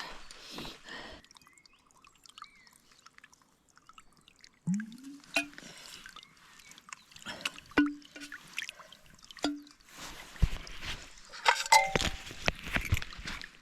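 Water being poured and dripping into a container, with short gurgling blips and scattered knocks and clinks of the container being handled, busiest in the last few seconds.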